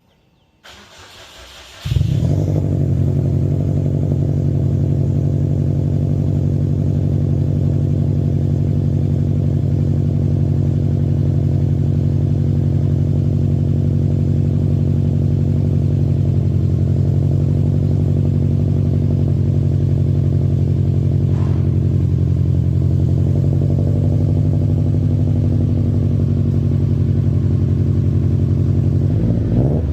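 Subaru WRX STI's EJ207 turbocharged flat-four cold-started: about a second of starter cranking, then it catches loudly and settles into a steady cold idle. It breathes through an unequal-length PSR header, an Invidia downpipe and an Xforce cat-back exhaust.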